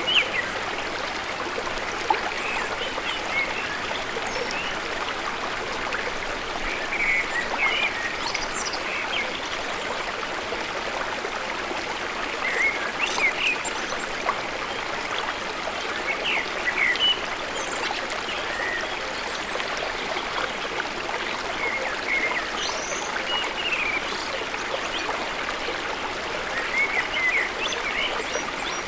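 Steady running water of a stream, with scattered short high chirps of birds over it.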